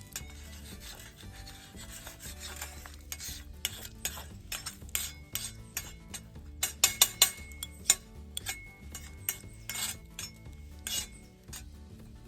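Metal utensil scraping, rubbing and tapping on an iron griddle during campfire cooking: irregular scrapes with sharp clicks, the loudest cluster about seven seconds in.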